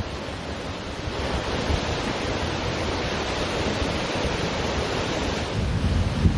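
Ocean waves washing on a beach, a steady surf wash with a low rumble that swells toward the end, with wind buffeting the microphone.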